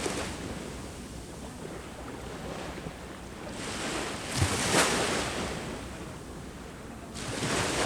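Ocean waves breaking on the shore, each wave surging and then washing back. Two breakers crest in this stretch, one about halfway through and one near the end.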